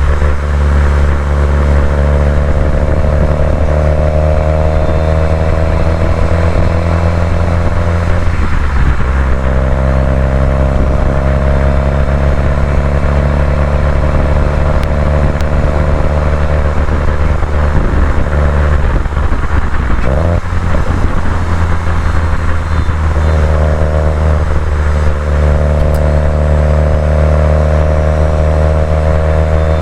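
Subaru WRX STI's turbocharged flat-four engine pulling under load while driving, its pitch slowly climbing. It briefly drops off and picks up again about nine seconds in, about twenty seconds in and around twenty-four seconds in, as at gear changes or throttle lifts.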